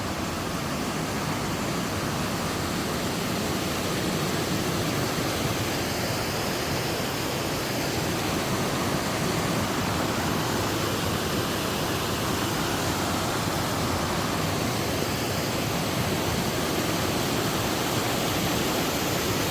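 A mountain river rushing steadily over rocks, an even unbroken water noise.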